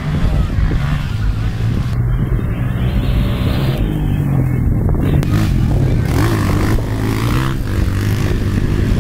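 Motocross bike engines running at a steady pitch, with some rise and fall in revs.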